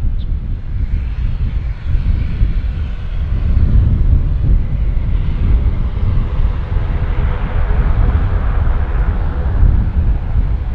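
Airliner engines passing low overhead on approach or departure: a continuous deep rumble with a rushing engine noise that swells in the second half.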